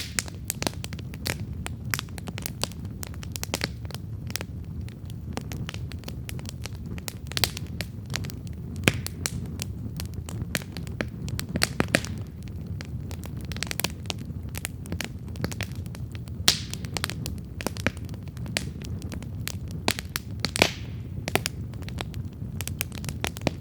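Wood campfire burning, with a steady low rumble of flames under irregular crackles and sharp pops, a few of them louder.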